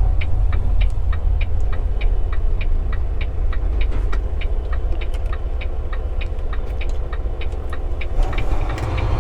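Semi-truck diesel engine's steady low rumble, heard from inside the cab, with a regular light ticking at about four ticks a second.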